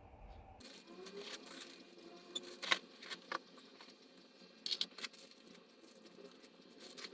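Light rustling with a few sharp clicks, the loudest in a cluster around the middle, as of small objects being handled.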